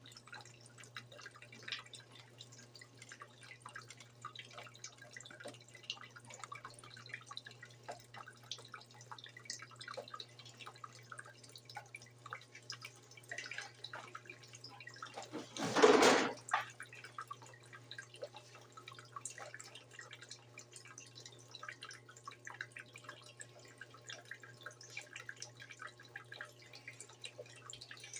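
Water dripping and trickling in a Brastemp BWG11 top-load washing machine, with many small ticks over a steady low hum. About halfway through comes one loud noisy sound lasting about a second.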